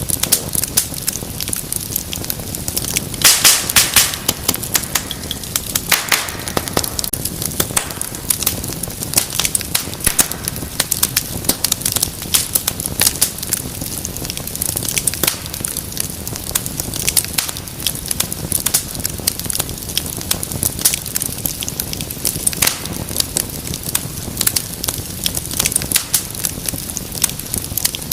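Fire in a fireplace crackling steadily with dense snaps and pops, with a louder flurry of pops about three to four seconds in.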